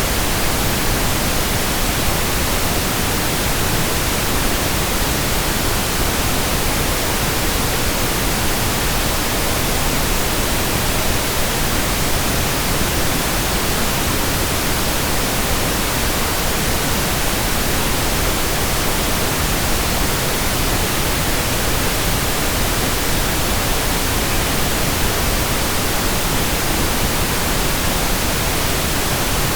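Steady synthetic pink noise: an even, unchanging hiss spread across all pitches, with a deeper, softer tone than white noise.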